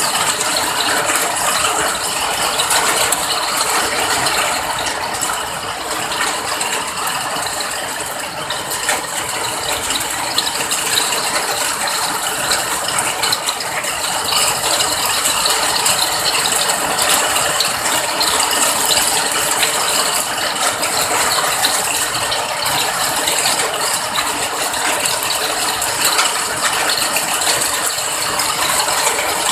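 Steady rain falling: a dense, even patter of countless small drop impacts.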